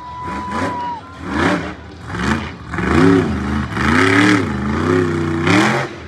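Monster truck engine revving hard, its pitch swinging up and down several times, with sudden loud bursts in between. A steady high tone sounds for about the first second.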